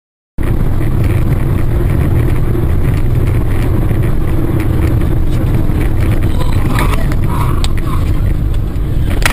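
Steady engine and road noise of a moving car heard from inside the cabin, cutting in abruptly after a brief silence.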